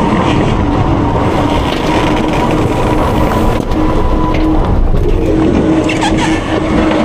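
Front-load garbage truck (Autocar with a Heil Freedom half-pack body) running its diesel engine and hydraulic packer, a steady whine held over the engine noise with a few metal knocks about six seconds in.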